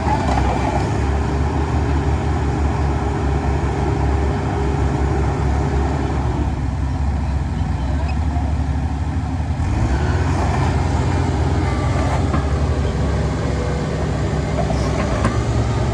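Heavy diesel machinery engine running steadily with a deep, continuous rumble.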